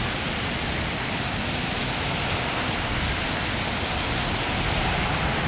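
Torrential rain from a severe thunderstorm line, a loud, steady, dense hiss, with strong wind buffeting the microphone underneath.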